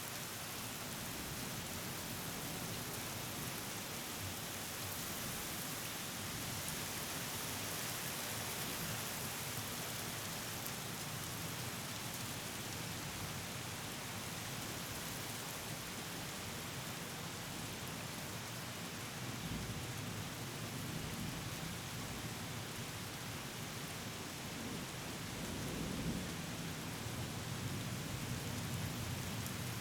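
Steady rain falling in a thunderstorm, with low rumbles of thunder swelling twice in the second half.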